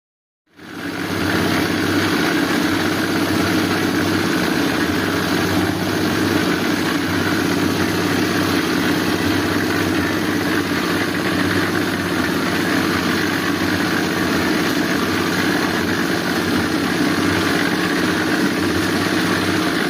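A small engine running steadily at an even speed, fading in within the first second.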